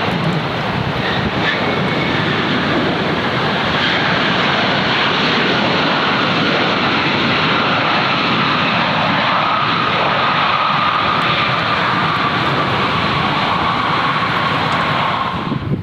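Jet airliner's engines passing close, a loud steady roar with a faint whine that slowly falls in pitch. It cuts off suddenly at the end.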